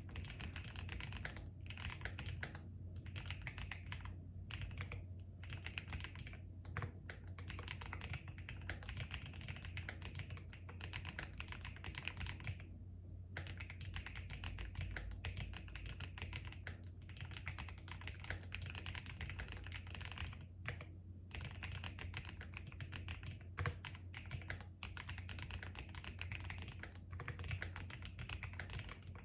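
Fast typing on a keyboard, steady runs of key clicks broken by short pauses, with one longer pause about halfway through, over a low steady hum.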